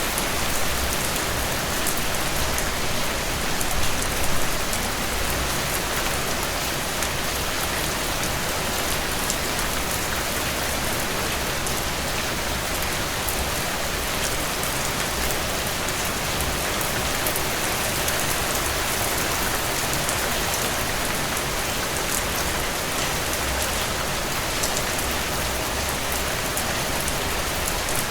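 Heavy rain falling steadily on a cabin porch: a dense, even hiss with scattered sharper drop ticks, swelling briefly louder about four seconds in.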